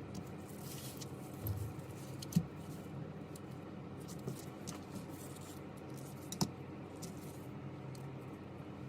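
Small tools and phone parts being handled on a workbench: a few light clicks and taps, the sharpest about two seconds in and again about six seconds in, over a steady low hum.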